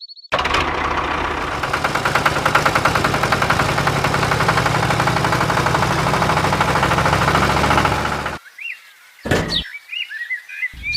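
An engine or motor running steadily with a fast rattling texture, cutting off abruptly about eight seconds in. Short high chirps follow near the end.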